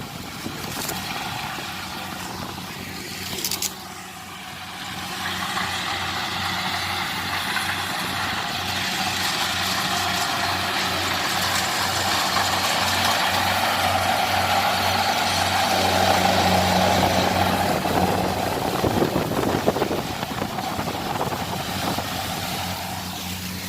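Large diesel engine running with a steady low hum, growing louder from about five seconds in and easing off a little near the end.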